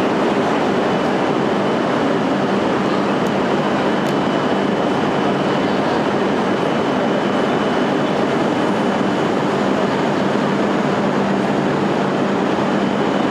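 E6 series Komachi shinkansen train running out of the station: a steady rush of running noise with a constant low hum and a faint high whine, even in level throughout.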